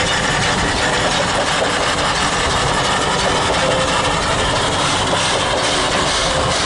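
Steam locomotive C10 8, a Japanese tank engine, running, with a loud, steady rush of noise and no clear beat.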